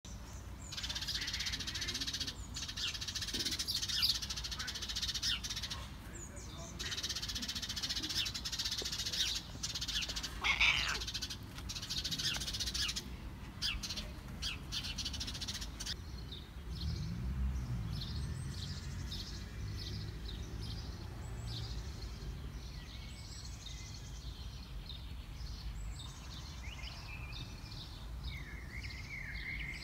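Birds chirping and singing outdoors, a dense chorus for roughly the first half, then thinning to scattered separate chirps, with a low rumble partway through.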